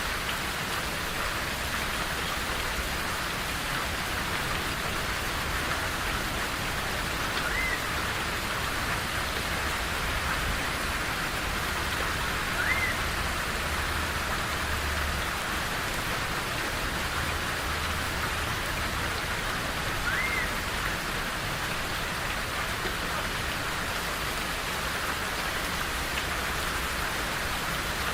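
Steady rain falling, with a bird giving a short, high, arched note three times, several seconds apart.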